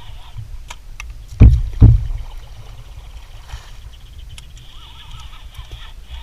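Knocks and bumps aboard a fishing kayak on open water, over a steady low rumble of water and wind. Two heavy thumps about half a second apart come a little over a second in.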